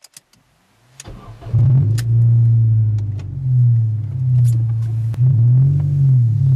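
Ford Focus engine with an aftermarket Steelhaus exhaust starting: a few clicks, then it catches about a second in, flares, and settles into a steady low exhaust note, with a brief dip and rise in revs about five seconds in.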